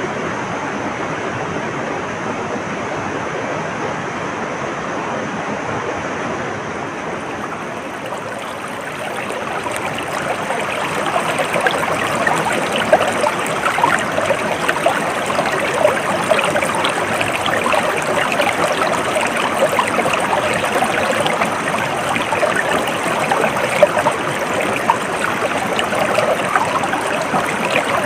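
Stream of water flowing over rocks, a steady rushing and gurgling. About a third of the way in it grows louder and more splashy, with close bubbling and trickling.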